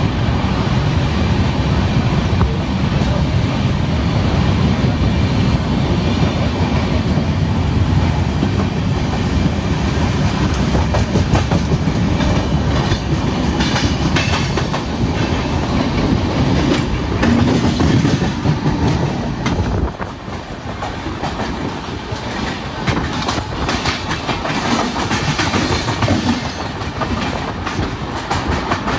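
Passenger train running along the track, a steady deep rumble with the clack of wheels over rail joints. The deep rumble drops off sharply about twenty seconds in, and the clacking carries on more quietly.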